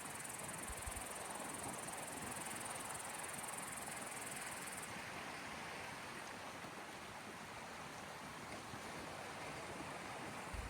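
Soft, steady wash of small waves on the shore of the sea. A high insect trill runs over it and stops about halfway through.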